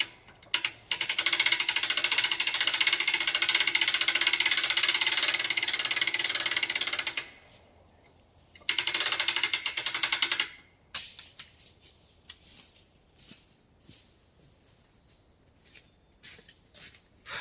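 An electric winch hauling in cable under load with a fast, loud rattle. It runs for about six seconds, stops, then runs again for about two seconds, followed by scattered clicks and knocks.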